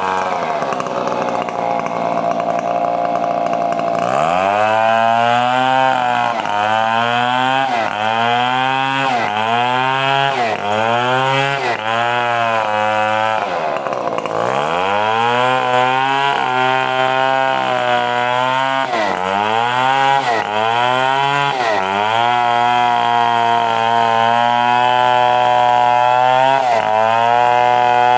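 Stihl 070 two-stroke chainsaw cutting lengthwise through a coconut palm log. Its revs drop and recover again and again, about once every second and a half, as the chain bites into the wood. Near the end it holds at steady high revs.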